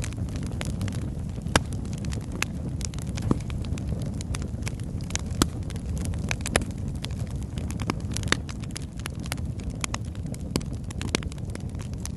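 Wood logs burning in a fireplace: a steady low rumble of flames with frequent sharp crackles and pops, a few louder snaps scattered through.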